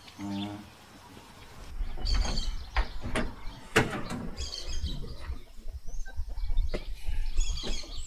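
Birds chirping in three short bursts, with a few sharp knocks and clicks in the middle from the pickup truck's door being opened as the driver climbs out.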